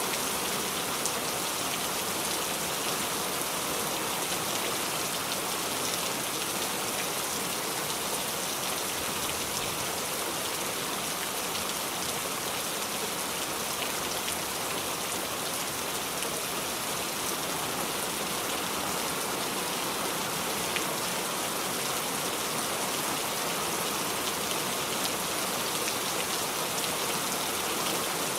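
Steady, heavy rain falling and pattering on surfaces, a dense even hiss with scattered drop ticks.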